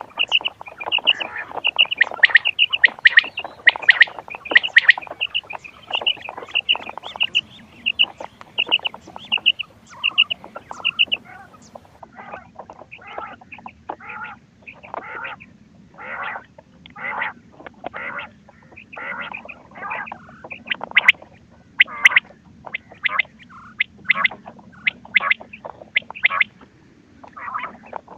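Quail calls from a hunting-call cassette. Quick runs of short, high repeated notes fill the first ten seconds or so, then give way to a looser string of shorter, lower calls.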